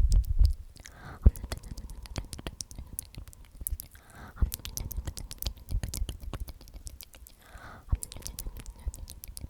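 Close-mic ASMR whispering of the word "omnomnom", repeated about every three and a half seconds, with many small wet mouth clicks in between.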